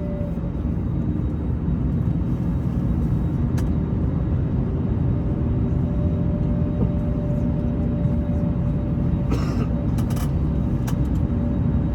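Airbus A321 cabin noise with the jet engines running: a steady low rumble with a constant hum and whine held at fixed pitch. A few light clicks sound about three and a half seconds in and again near the end.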